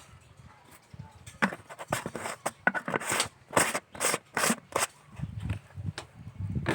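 A kitchen utensil scraping and mixing through a shrimp dip in its vessel, about ten quick strokes at roughly three a second, stirring in freshly added toasted rice powder.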